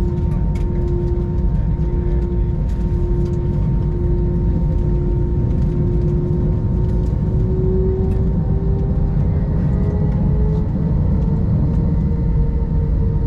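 Airbus A321 cabin noise: a steady low rumble with a jet-engine whine that rises in pitch from about seven seconds in, as the engines spool up.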